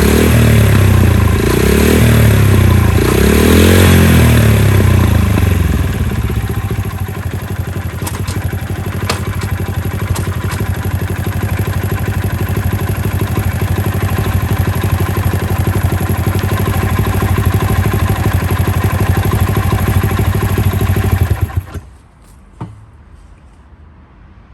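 Honda Little Cub's 50cc single-cylinder four-stroke engine blipped a few times, then idling steadily with a few light clicks, before it is switched off about 21 seconds in.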